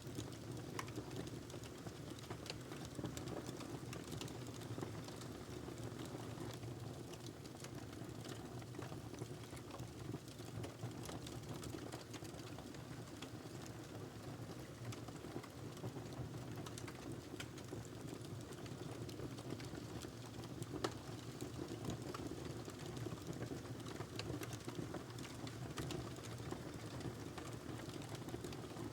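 Wood fire crackling in a fireplace: a steady low rush of burning log with scattered sharp pops and snaps throughout.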